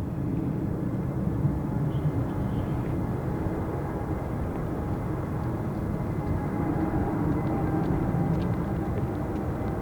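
Boeing 777-300 airliner's jet engines, a steady low rumble with a few faint held tones as the jet passes on arrival.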